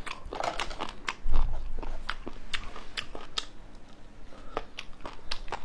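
Person biting and chewing crispy fried skewered meat: an irregular run of sharp crunches and crackles, with a dull thump about a second in.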